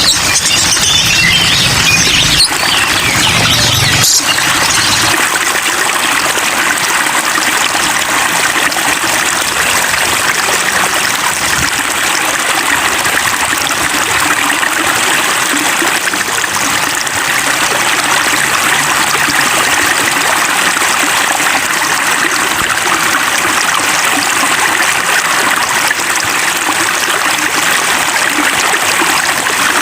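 Steady rain-and-running-water hiss, dense and even, played as a soothing water sound for cage birds. A different, brighter sound fills the first four seconds or so before the even water hiss takes over.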